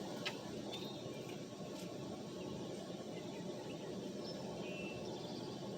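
Steady low background noise with a few faint, short high chirps.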